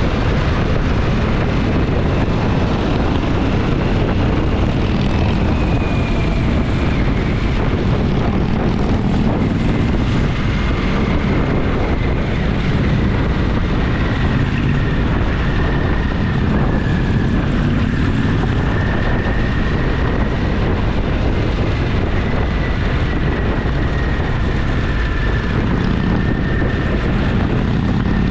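Motorcycle engine running steadily under way, a constant low rumble mixed with wind rush on the camera microphone, with a faint high whine that wavers slightly.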